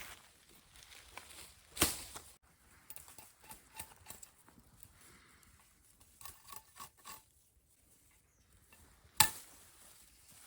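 Scattered light knocks and clicks of objects being handled, with two sharp, loud knocks, one about two seconds in and one near the end.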